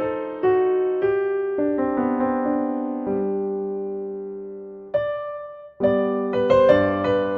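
Gentle solo piano music: single notes and chords ring and fade, with a chord left to die away before a brief pause about five seconds in, after which the playing resumes.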